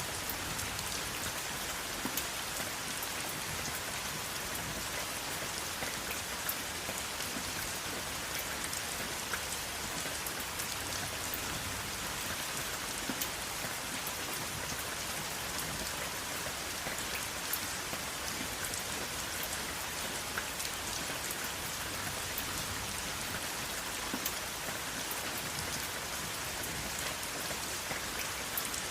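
Steady rain with no thunder: an even hiss of rainfall, with many small drop ticks scattered through it.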